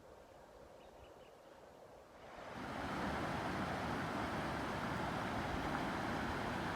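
Faint quiet with a few tiny high chirps, then, a little over two seconds in, the steady rush of fast-flowing stream water cuts in loudly and holds.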